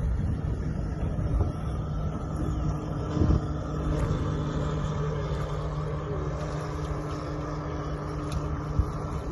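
Tohatsu 30 hp four-stroke outboard with an MSP flap exhaust running at a steady engine speed, with a low rumble and a few brief knocks over it.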